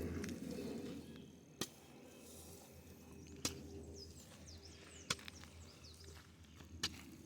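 A hoe blade striking into the soil four times, evenly spaced about one and a half to two seconds apart, digging planting holes for corn. Faint bird chirps in between.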